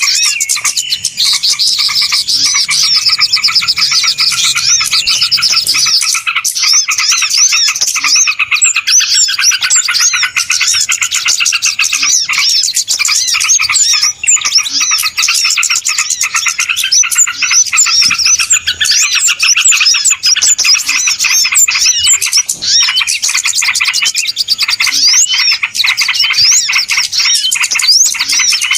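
Many small birds chirping and chattering at once in a dense, unbroken din of short, overlapping calls and trills. It is a bird-lure recording of a noisy flock, played to draw small birds in.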